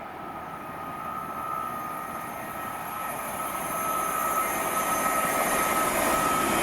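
Electric train approaching along the main line. A steady high whine comes in about a second in over a rising rush of wheel and rail noise that grows louder as it nears.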